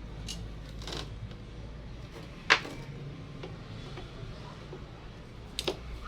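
A few sharp clicks and knocks from tools and parts being handled during repair work, the loudest about two and a half seconds in and a quick double click near the end, over a low steady hum.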